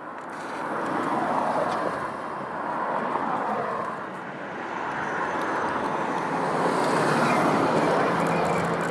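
Road traffic: motor vehicles passing on a town road, their tyre and engine noise swelling and fading several times, with one vehicle's engine hum heard near the end.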